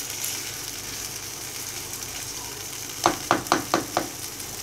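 Chicken wings sizzling as they fry in tomato masala in a nonstick pan while being stirred with a spatula; about three seconds in, five quick knocks of the spatula against the pan.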